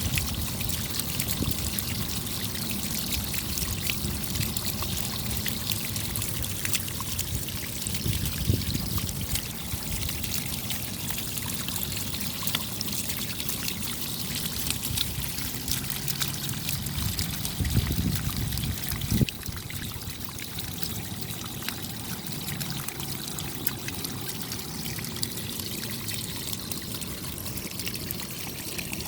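Rain falling steadily: a dense patter of fine drop ticks over the sound of running, trickling water. A brief louder swell about 18 seconds in ends in a single sharp tap.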